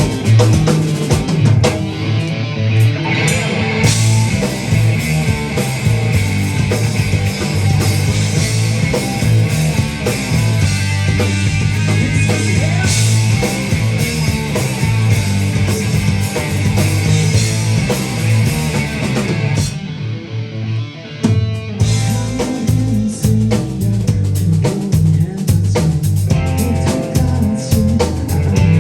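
Live rock band playing loudly: drum kit, electric guitar and bass. The sound thins out briefly about twenty seconds in, then the full drums come back in.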